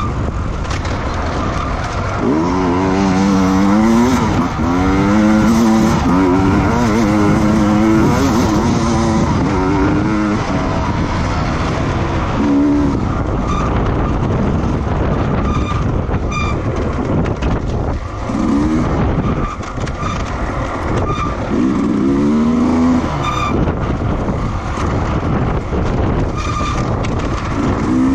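Racing engines running hard, their pitch rising and falling as machines accelerate, shift and pass. The engines are loudest in the first third and again about two-thirds of the way in, over a steady roar of track noise.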